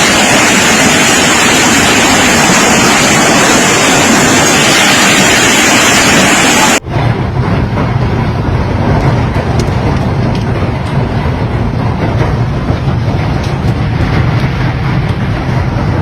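A hailstorm: dense, steady hail and rain pounding as a loud hiss. About seven seconds in it cuts abruptly to a deeper, rumbling roar of storm noise with wind buffeting the microphone.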